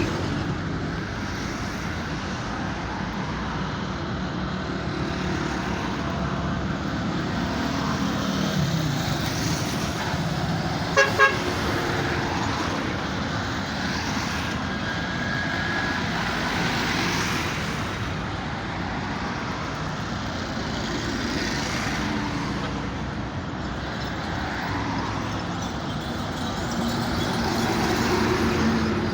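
Heavy truck engine running among traffic noise, with its pitch shifting now and then. Two quick horn toots about eleven seconds in.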